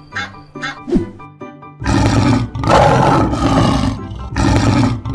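A lion roaring in several long bursts, starting about two seconds in, over a children's music track. Before that, short duck-like quacks repeat at an even pace.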